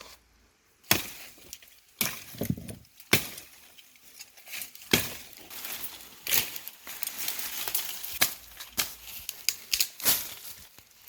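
Irregular sharp knocks and clinks, starting about a second in, with a rustling hiss between them from the middle on.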